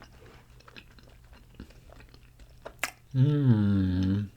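A person chewing a mouthful of fried potatoes, with soft wet mouth clicks. About three seconds in comes a long, loud hummed 'mmm' of enjoyment that slides slowly down in pitch.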